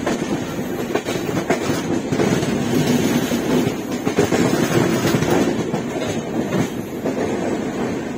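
Shatabdi Express passenger train running, its wheels clattering irregularly over rail joints and crossings above a steady rumble.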